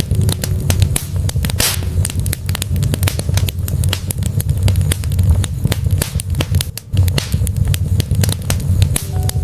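Wood fire burning in a fireplace: dense crackling with frequent sharp pops over a steady low rumble of the flames.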